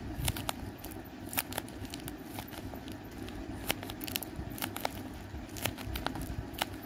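Hand-made paper squishy crinkling and crackling as thumbs squeeze and press it, in a run of irregular sharp crackles over a low rumble.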